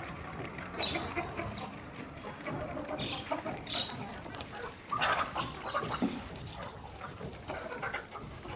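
Chickens clucking, with short sharp calls scattered throughout and a louder call about five seconds in.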